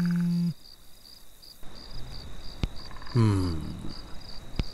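Crickets chirping steadily in regular pulses. A short flat buzz sounds at the very start, there are two sharp clicks, and a brief falling sound comes about three seconds in.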